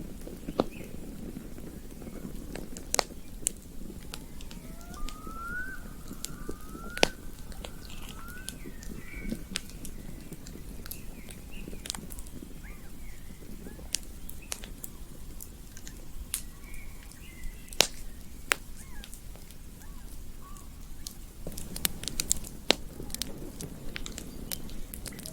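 Campfire crackling, with irregular sharp pops over a low steady rush of flames. A few faint short rising whistled calls come through in the first third and again past the middle.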